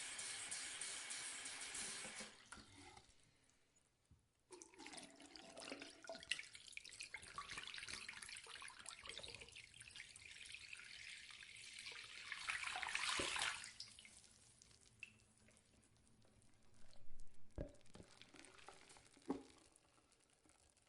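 Bathroom sink tap running into the basin. It stops about two seconds in, starts again a couple of seconds later and runs for about nine seconds, swelling just before it stops. After that come a few drips and splashes, with two sharp knocks near the end.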